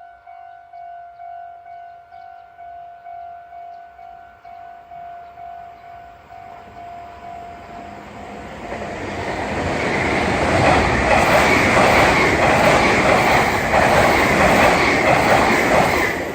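Japanese level-crossing bell ringing its repeated 'kan-kan' strokes, about two a second. About eight seconds in, a Meitetsu μSKY train rises up and passes loudly at speed, its wheels clattering over the rail joints and drowning out the bell, then falls away near the end.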